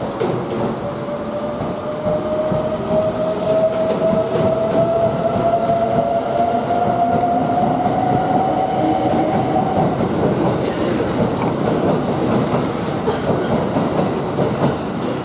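Kintetsu 23000-series Ise-Shima Liner electric train running, with a single whine slowly rising in pitch for about ten seconds as it gathers speed, over the steady clatter of wheels on the rails.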